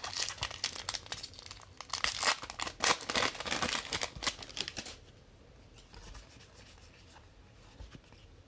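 Foil trading-card pack wrapper tearing and crinkling in quick rustles, stopping about five seconds in.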